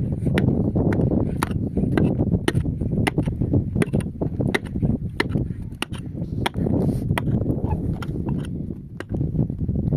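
Repeated sharp knocks of a hand tool striking, about one to two a second and unevenly spaced, over a steady low rumble of wind on the microphone.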